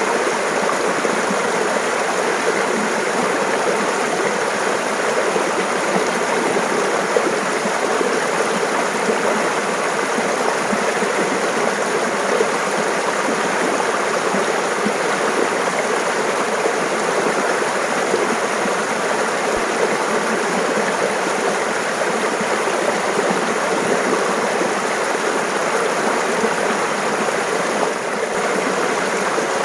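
Mountain stream water running and splashing over rocks, a steady babble.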